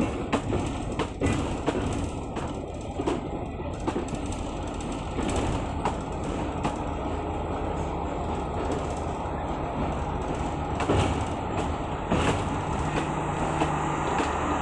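Train running on the rails: a steady rumble with irregular sharp clicks and knocks from the wheels and track. The clicks are thickest in the first few seconds, and a low steady hum joins near the end.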